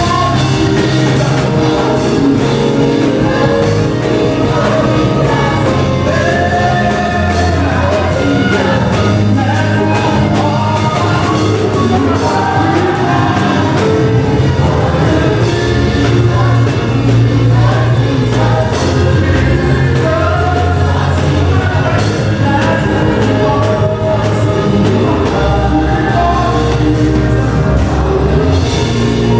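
Gospel worship music: singing with a choir over steady bass accompaniment.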